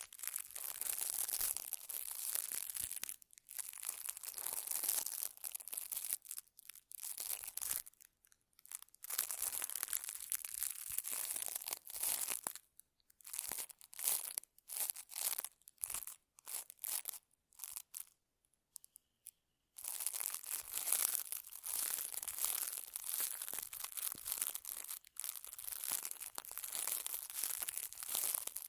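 Close-miked scratching and crinkling ASMR sounds, tactile noise of rubbing against the microphone, in stretches of a second or two with short pauses, turning choppier and more stop-start in the middle before running longer again near the end.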